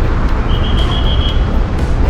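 Steady roadway traffic noise, a dense rumble of passing vehicles. For about a second in the middle, a high thin chirp repeats rapidly.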